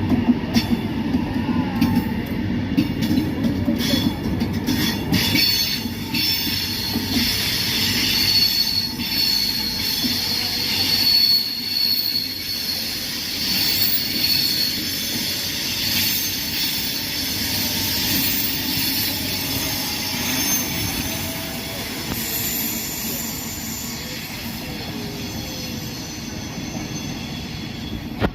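Frecciabianca passenger train running along the platform at the station. There are sharp clacks over the rail joints in the first few seconds, then a high steel-on-steel wheel squeal through the middle stretch, and the noise eases a little near the end.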